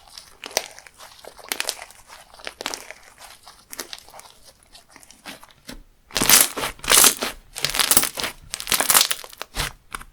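Hands pressing and folding a textured slime, giving many fine crackles and pops. About six seconds in it turns to louder crunching squishes, roughly one every half second to second, five or so in all, then stops abruptly.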